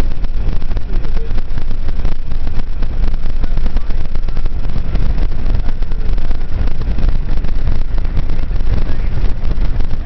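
Strong wind buffeting the microphone: a loud, unbroken rumble that flutters rapidly in level.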